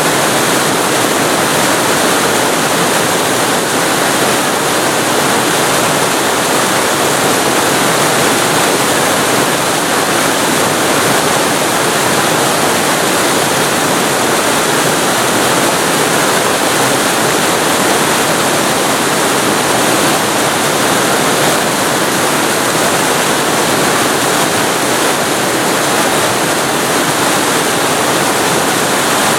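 Waterfall recorded very close to the falling water: a loud, steady, unbroken rush.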